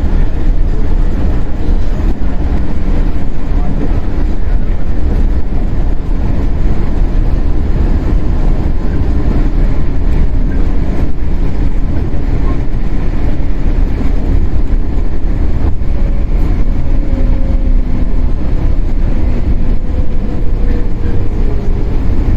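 Shinano Railway 115-series electric train heard from inside its motor car, running with a steady loud rumble of wheels and traction motors. In the last few seconds a faint whine falls slowly in pitch as the train slows.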